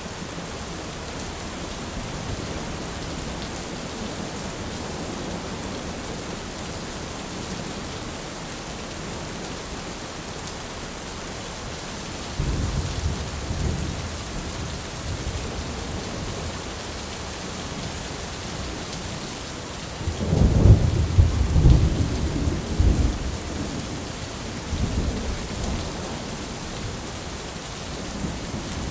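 Thunderstorm: steady rain hiss with two rolls of thunder. The first starts abruptly about halfway through. The second, louder one comes a few seconds later, lasts about three seconds and rumbles off.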